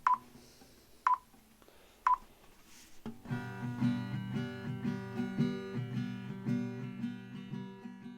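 Three short electronic beeps at one pitch, about a second apart, then plucked acoustic guitar music that begins about three seconds in and carries on.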